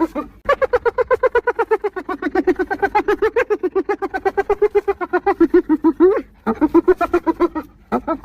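Spotted hyena giggling: rapid runs of short, high-pitched staccato notes, about eight to ten a second. One long run is followed, after a brief pause, by a shorter one.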